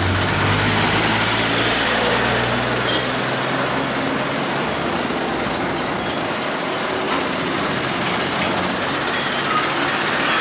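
Heavy diesel vehicles running on a hill road, a steady wash of engine and traffic noise. A low engine hum is strongest at first and fades away about three seconds in.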